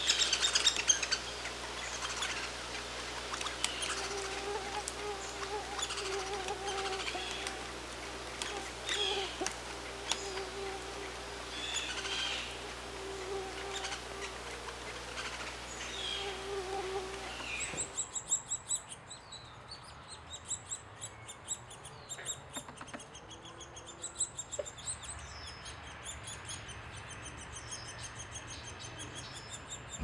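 Wild birds calling and chirping in short high notes, with a low drone that comes and goes for the first half. After a sudden change about halfway, a rapid high-pitched bird trill repeats over and over.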